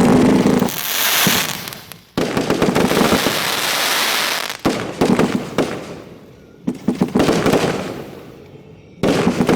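Fireworks finale close to the launch site: waves of shells bursting with dense crackling and sharp bangs. A loud wave starts suddenly about two seconds in, clusters of sharp bangs follow, and another burst comes near the end.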